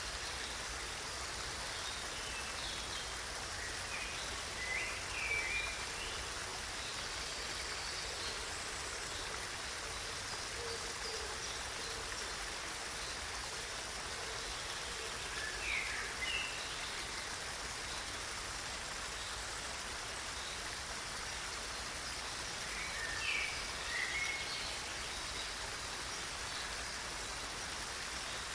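Steady rush of running water, with a bird chirping in short clusters three or four times.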